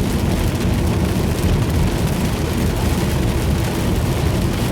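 Steady car cabin noise at highway speed in heavy rain: a deep rumble of tyres on standing water and road spray, with a hiss of rain on the car.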